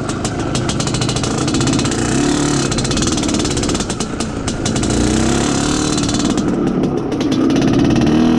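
IZh Planeta Sport's single-cylinder two-stroke engine, freshly being run in, pulling the motorcycle in second gear. Its pitch rises and falls with the throttle, climbing about five seconds in.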